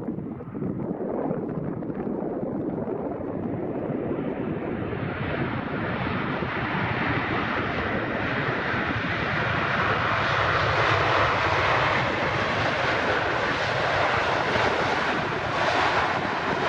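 Boeing 787-8 Dreamliner jet airliner on landing approach passing close by: a steady rushing jet engine and airflow noise that grows louder and brighter from about four seconds in and is loudest around ten seconds in.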